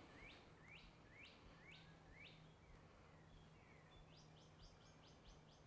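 Faint birdsong: a bird repeating a short, sharp chirp about twice a second, then a quicker run of chirps about four seconds in. A faint steady low hum sits underneath.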